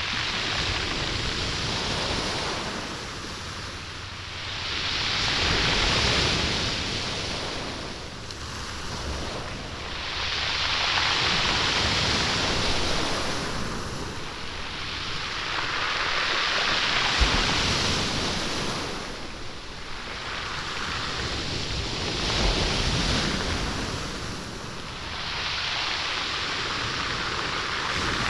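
Waves washing up and drawing back over a stony beach, the pebbles rolling and rattling in the surf. The hiss swells and fades with each wave, about every five seconds.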